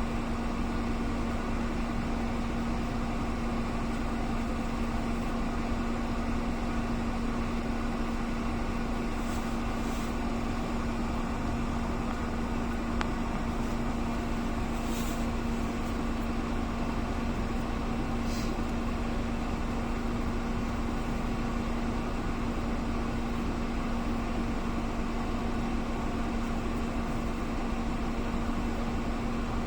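Steady mechanical hum with one constant low tone, unchanging throughout, with a few faint clicks.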